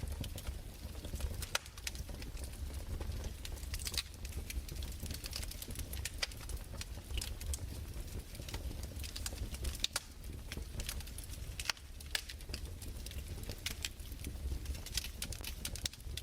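Fireplace crackling: irregular sharp pops and snaps, a few louder ones, over a steady low rumble.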